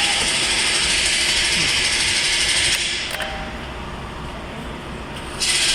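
2019 Kia Sportage engine running after being started, with a loud steady whirring. The whirring drops quieter after a click about three seconds in and comes back abruptly near the end.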